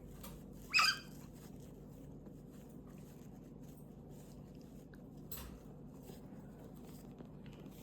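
A galah cockatoo gives one short, high-pitched chirp about a second in. The rest is faint room tone, with a light click a little past halfway.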